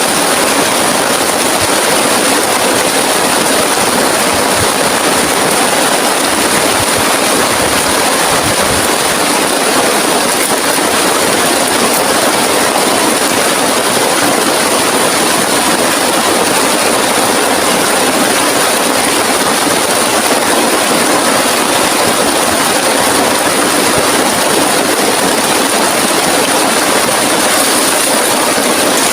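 Heavy rain falling steadily and hard, an unbroken loud hiss.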